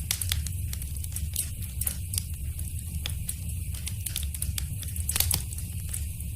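Wood fire crackling in a fireplace: irregular sharp pops and snaps over a steady low rumble of the flames, with the loudest cluster of pops about five seconds in.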